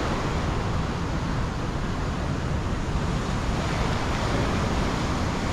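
Steady wash of sea surf mixed with wind rumbling on the microphone, an even noise with no separate events.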